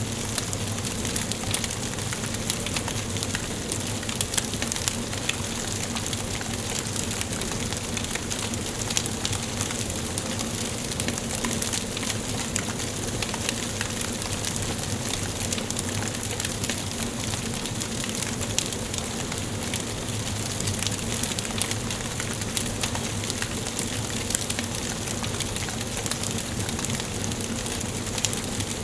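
Wood fire burning in a fireplace, with a steady hiss and frequent small, sharp crackles and pops throughout.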